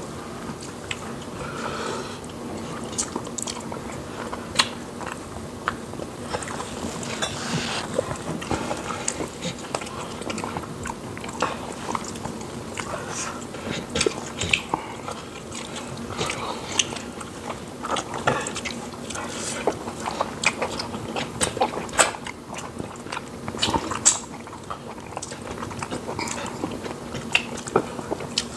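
Close-up mouth sounds of two people eating fufu and soup by hand: chewing, with many irregular wet clicks and smacks.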